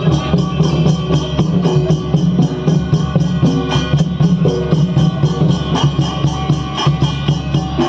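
Instrumental interlude of Odia Danda Nacha folk music: a fast, steady drum rhythm under a held melody line, with no singing.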